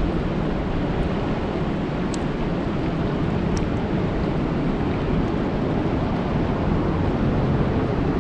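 Steady rain falling on a lake: a dense, even hiss, heaviest in the low range, with a couple of faint sharp ticks.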